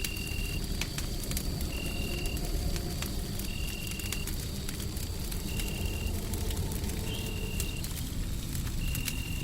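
Wood fire crackling with scattered sharp pops over a steady low rumbling noise bed. A short high tone sounds about every second and a half.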